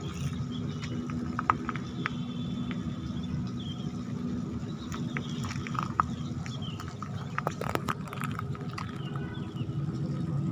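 Steady low machinery hum with scattered sharp clicks and knocks, as a ship is hauled up a slipway on rail cradles by wire.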